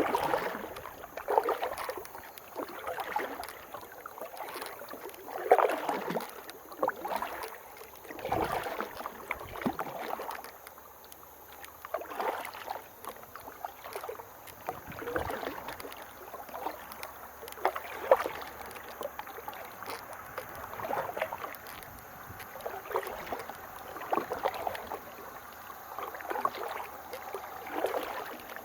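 Kayak paddle strokes dipping and splashing in river water, one splash every second or so, over a low steady hiss of moving water and air.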